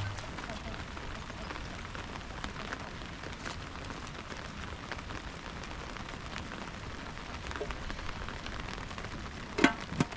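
Steady rain falling, an even hiss scattered with the ticks of single drops. Near the end a short, loud pitched sound comes twice in quick succession.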